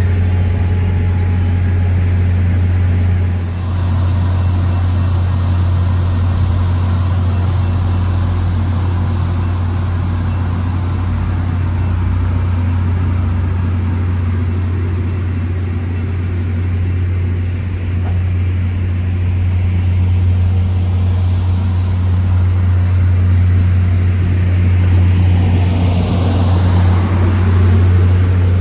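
Diesel locomotive engine running steadily with a loud, low hum. A rising sound builds over the last few seconds.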